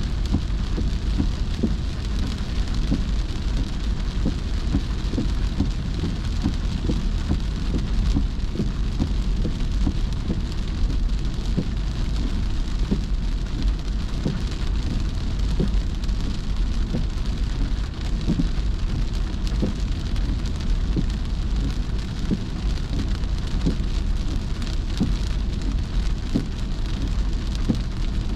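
Heavy rain pattering on a car while it drives: a dense, steady patter of drops over a constant low rumble.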